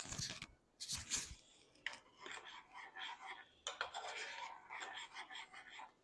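A kitchen utensil knocking and scraping against cookware: two sharp knocks at the start and about a second in, then a run of quick scratchy scrapes and rubs.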